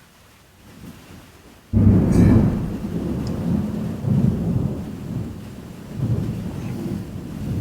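A deep rumble that starts suddenly about two seconds in and rolls on in several swells.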